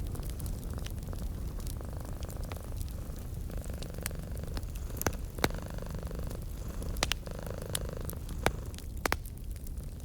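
Domestic cat purring steadily and close, a low continuous rumble, over a wood fire crackling with scattered sharp pops, a few louder ones from about halfway through.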